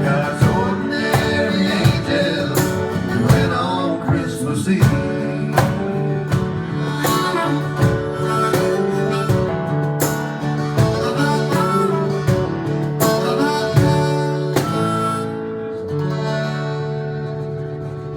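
Americana band playing an instrumental ending, with harmonica over guitars and a steady drum beat. About fifteen seconds in, the beat stops and the band holds a final chord that fades away.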